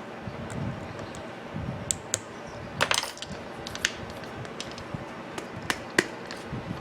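Light metallic clicks and taps as small parts and tools are handled on an opened angle grinder during repair. There is a quick cluster of clicks about three seconds in and a sharp single click near six seconds.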